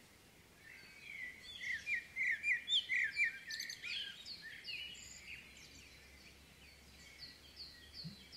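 Several songbirds chirping and singing over a faint steady rush of river water. A busy burst of quick chirps comes first, then a regular run of short descending notes, about two a second.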